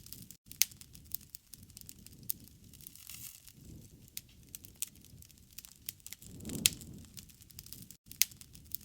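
Wood fire crackling, with sharp pops and snaps at irregular intervals over a low rushing noise that swells about six and a half seconds in.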